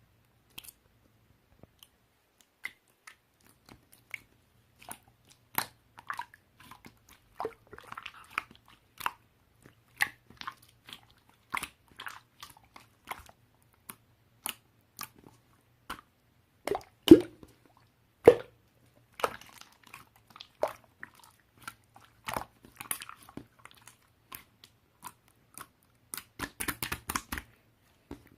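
Slime being pressed, stretched and poked by hand, giving irregular sticky clicks and small air-pocket pops. Two louder pops come a little past the middle, and a quick run of clicks comes near the end.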